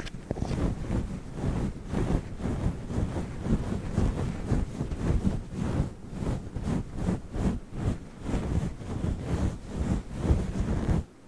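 Close-up rubbing and scratching on a fluffy microphone cover: a dense run of quick, uneven rustling strokes.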